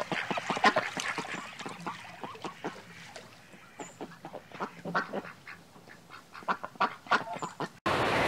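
Domestic geese honking, many short calls in quick succession, some overlapping. The calls stop suddenly near the end and a steady rushing noise takes over.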